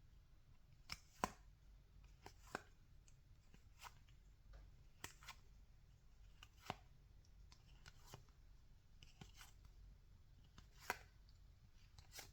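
Baseball trading cards being handled and flipped through: faint, scattered clicks and slaps of card stock, roughly one a second, over a low steady hum.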